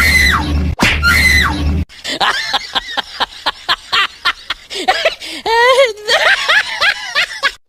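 A short voice clip with a low hum under it plays twice back to back, as if looped. It is followed by a fast run of short, laugh-like voice sounds and a voice swooping up and down in pitch.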